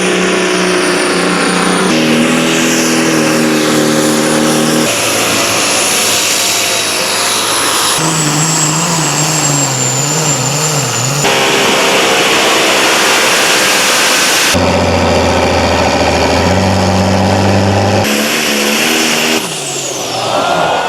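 Pulling tractor and truck engines running hard at high revs in a string of short clips, the engine note changing abruptly every two to four seconds.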